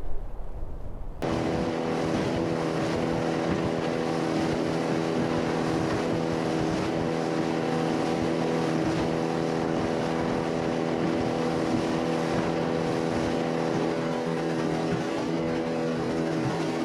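Bass boat's outboard motor running at a steady cruising speed, its note holding constant, under a heavy hiss of wind and water. It begins abruptly about a second in.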